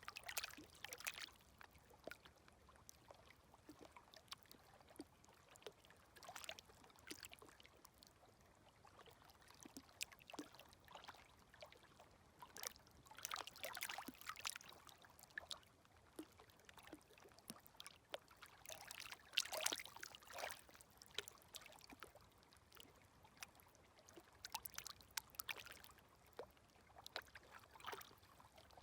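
Small, gentle sea waves lapping at the shore: a faint wash with trickling and fine clicking that swells about every six seconds and dies back between.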